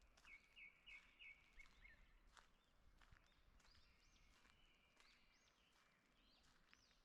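Faint songbirds calling: a quick run of about six short chirps in the first two seconds, then scattered arching whistled notes.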